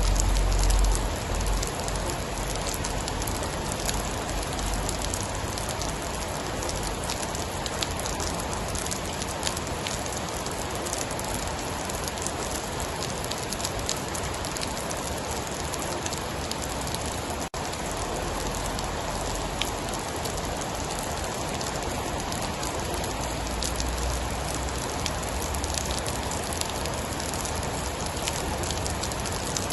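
Steady heavy rain with a dense patter of drops. A low rumble swells in the first second or so and again later on, and the sound dips out for an instant just past the middle.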